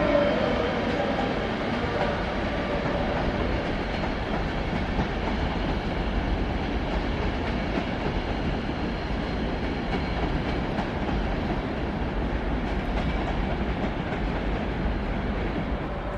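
Train moving through a station: steady noise of wheels running on the rails.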